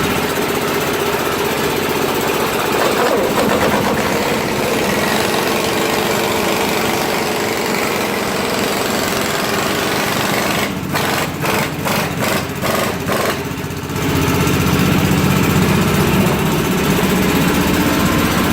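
A motor running loudly and steadily, broken by a run of short stops and starts about eleven to fourteen seconds in.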